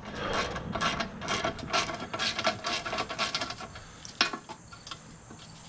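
Hand rummaging through a bucket of loose bolts and nuts, hunting for a carriage bolt: irregular metallic clinking and rattling that thins out near the end.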